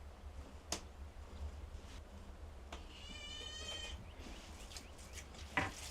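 A short wavering animal call, about a second long, around the middle, with a sharp knock near the start and a louder thump near the end.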